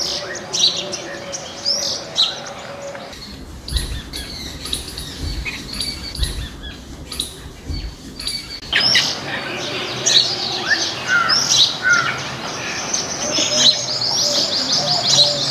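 Several garden birds chirping and calling, with many short, high notes overlapping. About three seconds in, the calls thin out and a low rumble comes in for several seconds, then dense chirping resumes.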